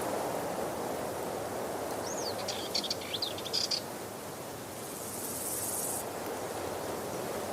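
Waterfall rushing steadily, with a bird's few quick chirps and whistles about two to four seconds in, and a brief high hiss about five seconds in.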